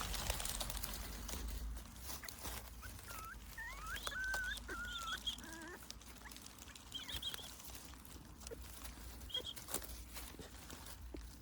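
High-pitched squeaky animal calls: a cluster of short rising and wavering ones a few seconds in, then a few more later, over faint crackling and rustling.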